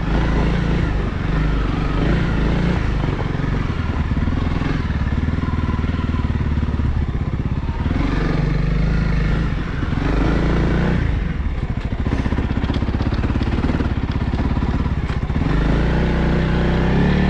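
Honda CRF300L's single-cylinder four-stroke engine running under load as the bike is ridden up a snowy trail, the engine speed rising and falling with the throttle.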